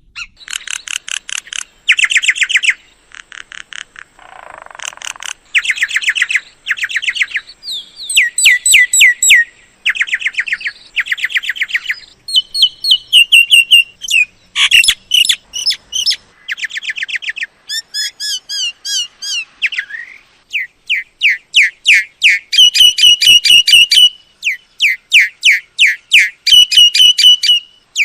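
Myna calling in quick runs of sharp, repeated whistled and chattering notes. The phrases keep changing, with a harsh rasp about four seconds in.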